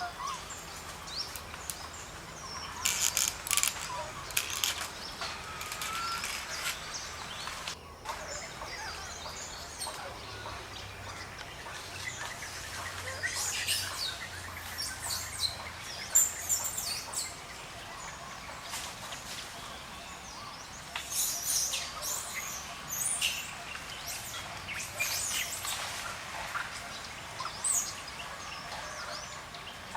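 Birds chirping, with short high calls coming irregularly over a steady faint background.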